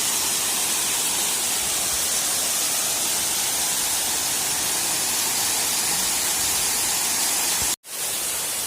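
Steady rush of a waterfall crashing onto rocks. It cuts out for an instant near the end, then resumes slightly quieter.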